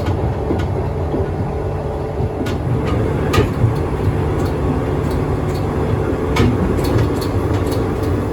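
JR 115 series electric train running, heard from inside the passenger car: a steady rumble and hum from the wheels and motors, with scattered clicks as the wheels pass over rail joints.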